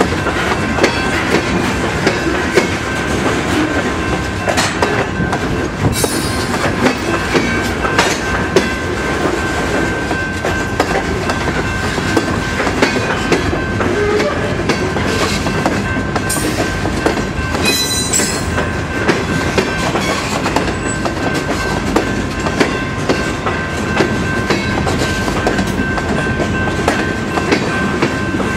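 Freight train cars rolling past, wheels clicking rhythmically over the rail joints, with a steady high tone running underneath.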